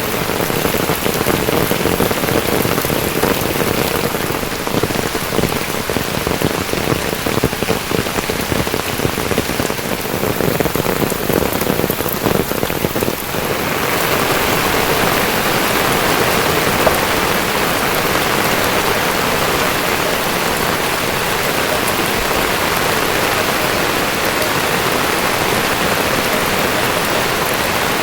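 Steady rain falling and striking surfaces in many small drop impacts. About halfway through, the sound changes to a smoother, higher-pitched hiss of rain.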